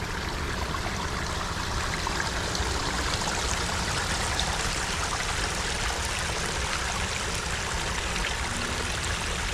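Water flowing steadily and trickling through a beaver dam, a constant rushing with small splashy ticks.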